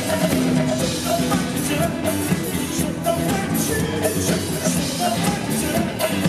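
Rock band playing live, with a drum kit keeping a steady beat.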